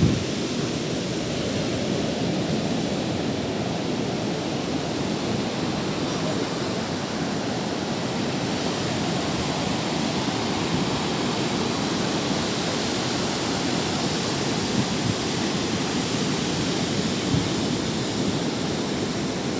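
Sea surf washing in, a steady rush of waves with little rise and fall.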